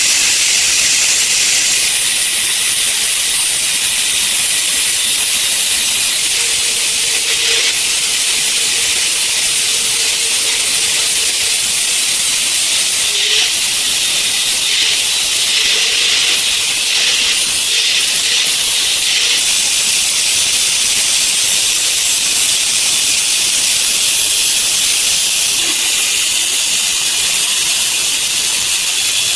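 A steady, loud hiss, high-pitched and even, with a faint thin tone coming and going in the middle.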